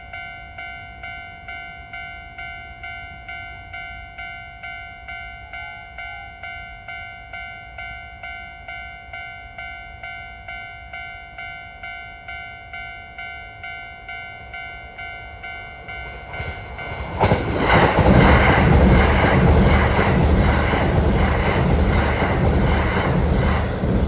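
Japanese level-crossing warning bell ringing in an even repeated ding, a little over two strikes a second. About sixteen seconds in, a Kintetsu Hinotori limited express train passes through the crossing, and its loud rumble and rail noise mostly drown the bell.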